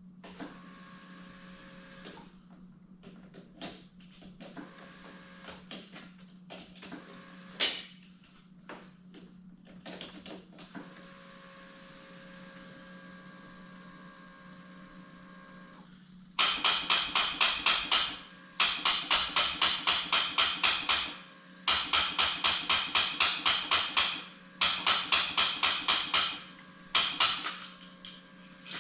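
Quad's starter solenoid chattering in rapid clicks, about eight a second, in five bursts as the start button is pressed repeatedly, with a few scattered knocks earlier. This is the typical sign of a battery too weak to turn the starter.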